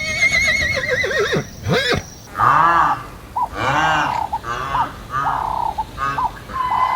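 A horse neighs with a quavering whinny that falls in pitch, then a different animal gives a run of short calls that rise and fall in pitch.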